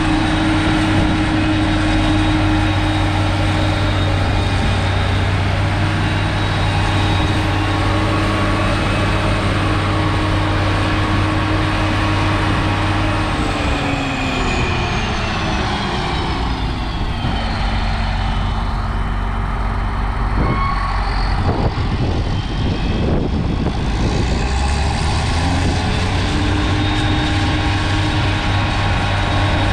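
Heavy farm vehicle's diesel engine running steadily. About halfway through its pitch drops as it slows or takes load, with a few knocks, then it climbs back up to speed near the end.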